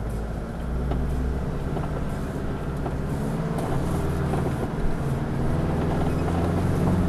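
Four-wheel-drive vehicle's engine working at low speed over a rough track, its note rising about a second in and shifting up and down as the driver works the throttle, with a few faint knocks from the vehicle.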